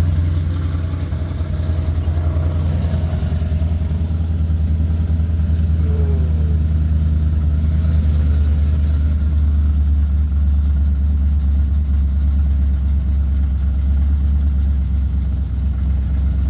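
Ram pickup's engine idling steadily on a cold start, with the exhaust cutouts open so the exhaust runs loud, bypassing the muffler.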